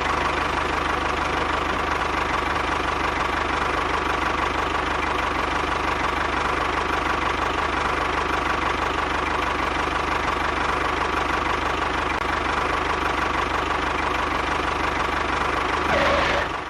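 Small engine of a homemade mini tractor running steadily at a constant speed.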